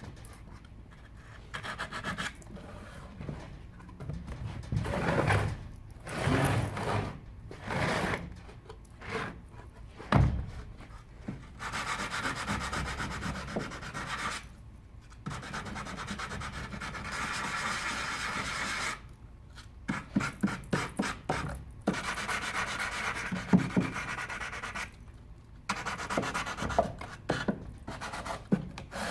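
Wood being sanded by hand: irregular rubbing strokes with a longer steady stretch in the middle, a single knock about a third of the way in, and a quick run of short strokes near the end.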